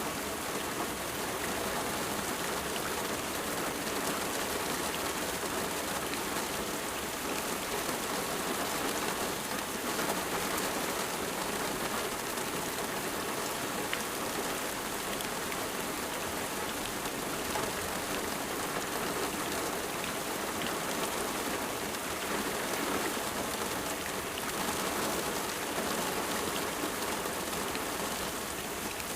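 Steady rain falling, a constant hiss with scattered drops pattering on a surface.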